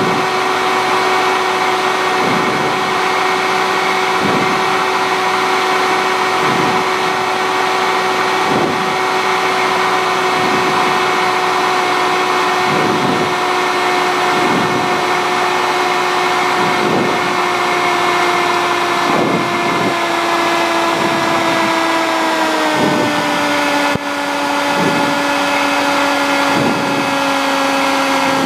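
Cessna 150's four-cylinder Continental O-200 engine running steadily, heard inside the cabin, its pitch stepping down about two-thirds of the way through and again at the end as power is reduced. A faint swish repeats about every two seconds.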